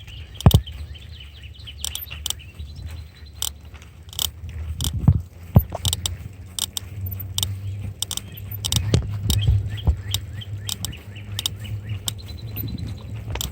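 Bicycle riding along: a low, uneven rumble with many irregular sharp clicks and rattles, and faint high chirps now and then.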